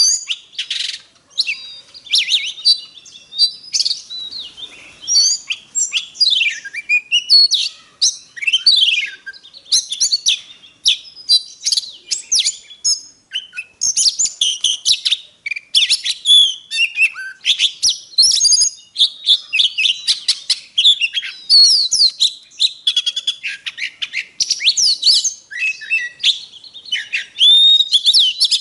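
Oriental magpie-robin singing without a break: a fast, varied string of clear whistles, rising and falling sweeps and short chirps.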